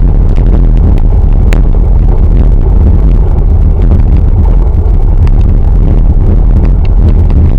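Loud, steady wind rumble buffeting the microphone while riding a bicycle, with a few light clicks and rattles.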